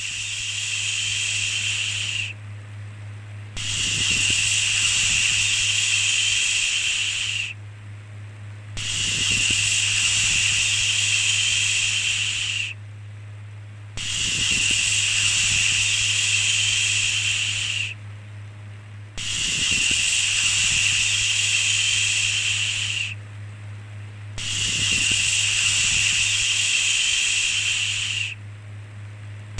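Repeated long 'shhh' shushing sounds, each held about four seconds with a short pause between, coming about once every five seconds. A steady low hum runs underneath.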